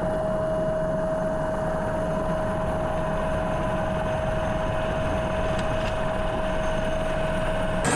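Steady engine drone with a constant high-pitched whine, unchanging throughout, cutting off abruptly at the very end.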